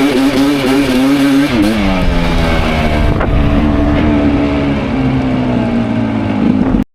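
Enduro dirt bike engine running under throttle, its pitch wavering, with a brief dip and pick-up about two seconds in before settling and easing slowly. The sound cuts off abruptly near the end.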